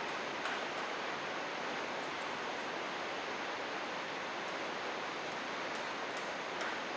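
Mountain river water rushing steadily, with a few faint high ticks over it.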